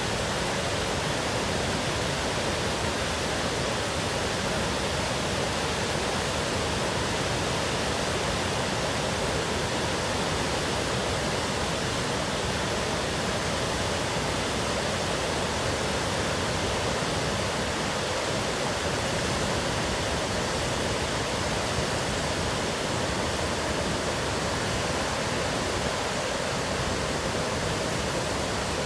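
Waterfall, swollen with high water, giving a steady, unbroken rush of falling water.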